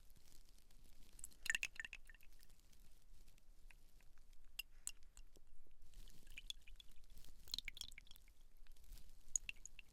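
Quiet, close-up sticky crackling and small clicks of fingers working gel or cream into hair and scalp, in two denser spells, about a second and a half in and again past the middle.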